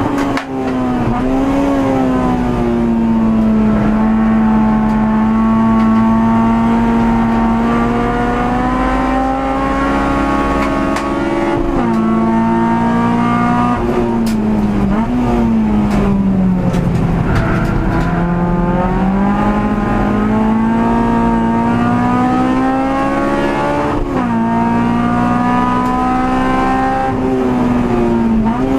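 Honda Civic EG6's VTEC four-cylinder race engine heard from inside the cabin at full throttle, its pitch climbing and then dropping sharply at each gear change, with a deeper dip and climb partway through as the car slows for a corner and pulls out of it.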